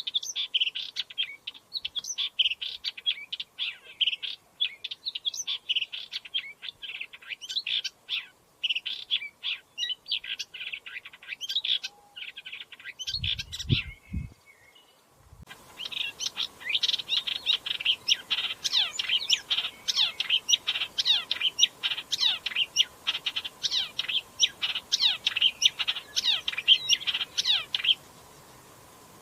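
Upcher's warbler singing a fast, continuous run of many short notes, in two long bouts with a pause of about three seconds in the middle. During the pause there is a brief low thump. The song stops shortly before the end.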